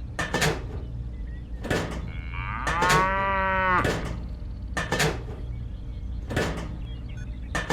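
A cow moos once, for about a second, near the middle, with sharp knocks every second or so and a steady low hum underneath.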